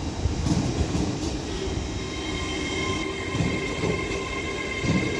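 TransPennine Express class 802 train pulling slowly out of the platform: a low rumble with a few dull thuds, and from about two seconds in a steady high-pitched wheel squeal made of several held tones.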